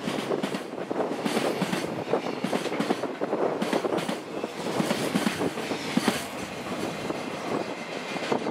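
Container wagons of a freight train rolling past close by at speed, wheels clattering over the rail joints in a dense run of knocks. The last wagons go by near the end, and the sound eases a little as the train moves away.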